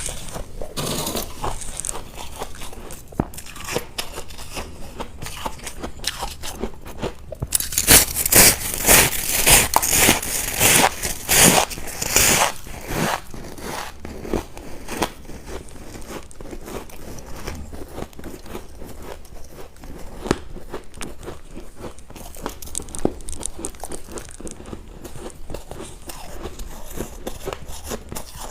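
Ice being bitten and chewed close to the microphone. A run of loud, sharp crunches comes from about a quarter of the way in for about five seconds, with quieter crackling and chewing before and after.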